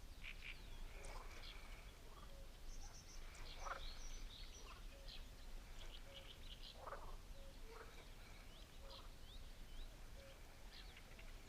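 Faint chorus of wildlife calls around a lake: frogs croaking and birds chirping, with a short low note repeating about once a second.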